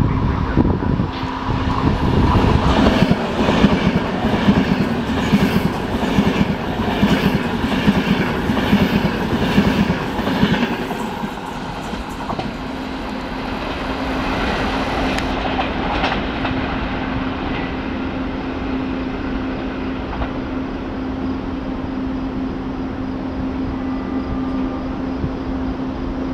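Frecciabianca train passing through the station, its wheels clattering in an even rhythm over the rail joints for about the first ten seconds, then dying down to a steady rumble as it runs off. A steady low hum runs throughout.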